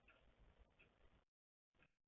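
Near silence: faint outdoor background with a few faint, short high ticks. It drops out to dead silence for about half a second partway through.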